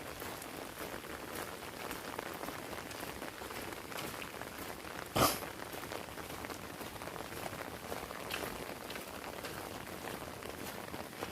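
Heavy rain pattering steadily on an umbrella, with scattered drop ticks and one louder sharp hit about five seconds in.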